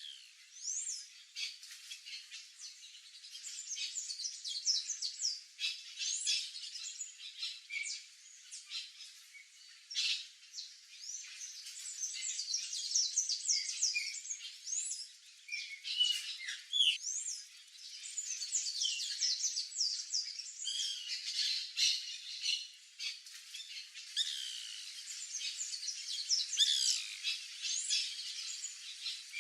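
A busy chorus of birds calling, with many short, overlapping chirps and squawks that sweep up and down in pitch throughout.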